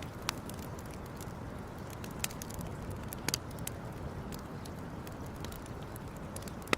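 Wood campfire crackling, with scattered sharp pops and snaps over a steady low rushing sound; the loudest pop comes near the end.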